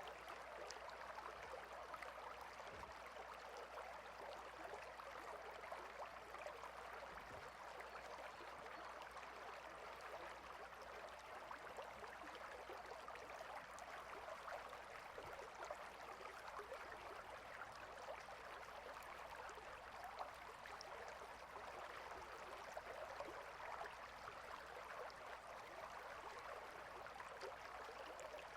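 Small stream flowing: a soft, steady rush and trickle of water.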